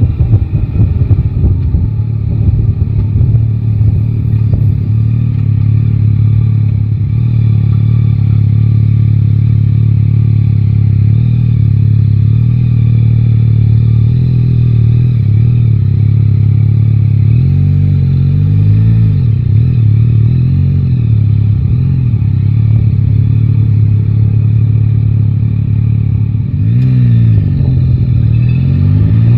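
Yamaha Tracer 9 GT's inline three-cylinder engine running at a steady cruise, with some wind noise in the first couple of seconds. About two-thirds of the way through, engine speed rises and falls several times through gear changes, and near the end it drops off and then climbs again as the bike accelerates.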